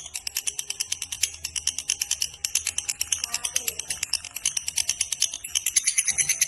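Lovebird giving its long 'ngekek' chattering call: a rapid, unbroken string of sharp high notes at about ten a second, growing louder near the end.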